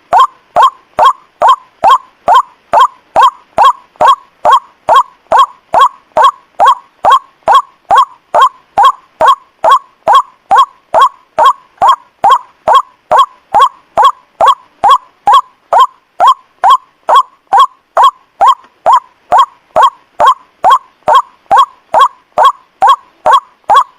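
White-breasted waterhen (ruak-ruak) call used as a lure: short falling honking notes repeated at an even pace of nearly two a second, each with a faint click.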